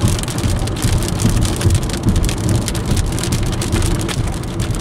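Rain striking a moving car's windshield, heard from inside the cabin as a dense patter of quick drop hits over the low, steady rumble of the car on the road.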